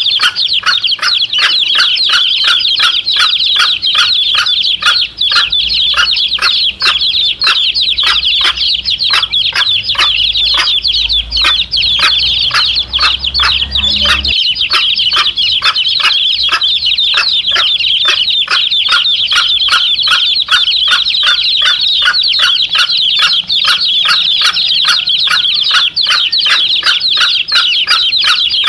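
A brood of chicks peeping constantly in high, shrill calls, with a mother hen clucking in a quick, regular run of short clucks.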